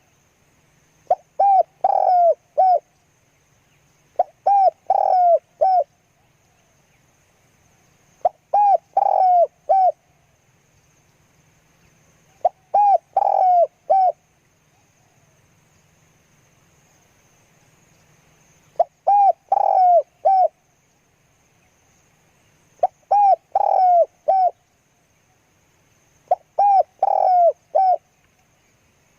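Spotted dove cooing: seven short phrases of three to five coo notes each, repeating every few seconds, with a longer pause about halfway through.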